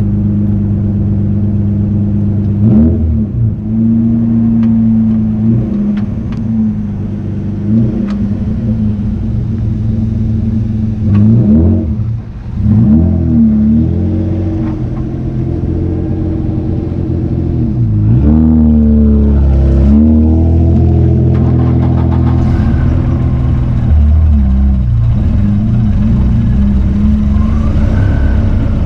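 1995 Ford Probe's 2.5-litre KL-DE V6 with a mildly lacking exhaust, revving up and dropping back several times as it accelerates through the gears, with a few sharp pops of backfire in the first half.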